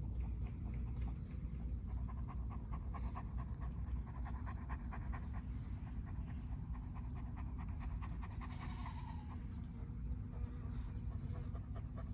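Dog panting with quick, rapid breaths over a steady low rumble.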